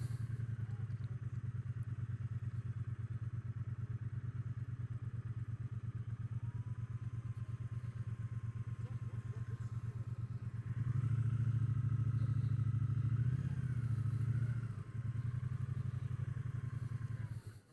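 Triumph Bonneville T120's 1200 cc parallel-twin engine running at low speed as the motorcycle rides along, with a steady pulsing beat. It grows louder for a few seconds just past the middle, dips briefly, and cuts off just before the end.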